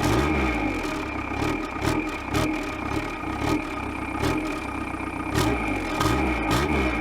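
Diesel car engine idling, heard from right at the tailpipe, with the exhaust gas blowing onto the microphone in uneven low gusts and scattered sharp crackles from the microphone overloading.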